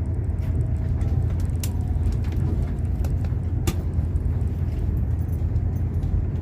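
Steady low rumble of a moving train heard from inside the carriage, with a couple of sharp clicks.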